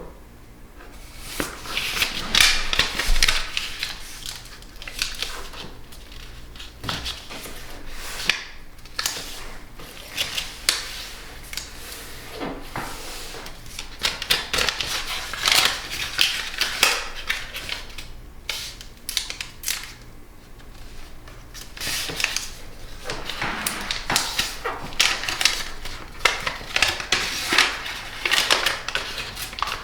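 Paper being folded and creased by hand for an origami fish base: irregular crackling, rustling and sharp crinkles in bursts throughout.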